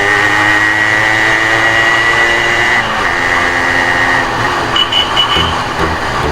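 Motorcycle engine running, most likely the Yamaha RX100 two-stroke, its pitch sagging a little over the first three seconds before it changes. A few short, high beeps sound about five seconds in.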